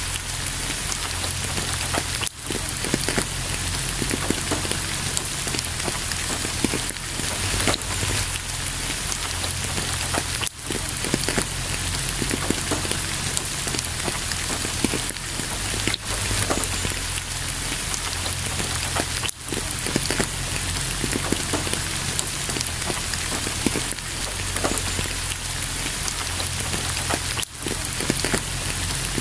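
Steady rain with many close individual drops splashing, dipping out very briefly a few times.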